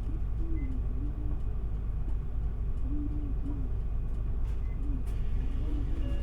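Interior running sound of an Isuzu Erga city bus under way: a steady low rumble of the diesel engine and road noise, with faint wavering tones riding over it.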